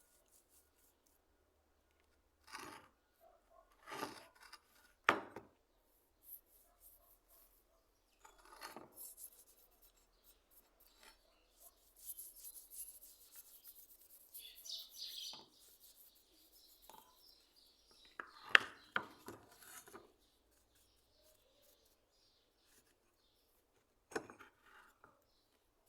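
Hand work on a hand plane being restored: scattered rubbing and scraping strokes with a longer stretch of rubbing partway through, and a few sharp knocks or clinks, the loudest about five and about eighteen seconds in.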